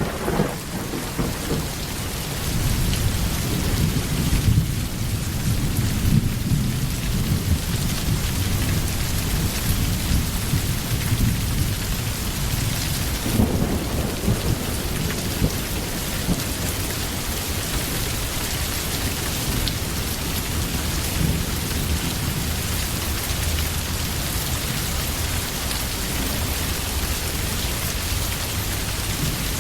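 Steady heavy rain with thunder rumbling low beneath it, strongest in the first few seconds and again about halfway through, then easing to rain alone.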